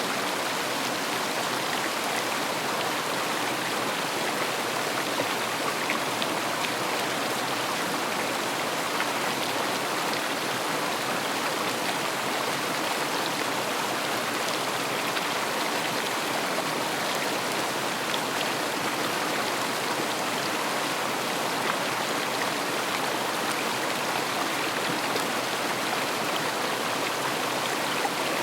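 River water flowing and splashing steadily, a constant rushing with faint droplet ticks.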